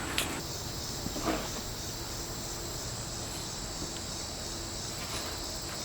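Steady high-pitched insect chirring with a faint even pulse, over a low outdoor rumble.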